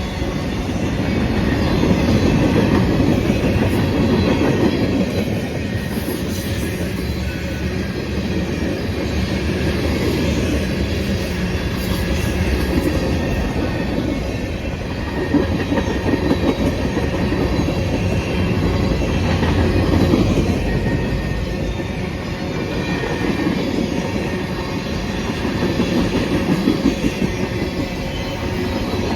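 Freight train's cars rolling past at speed, a steady rumble of wheels on rail with rhythmic clickety-clack over the rail joints, swelling louder around the middle and near the end.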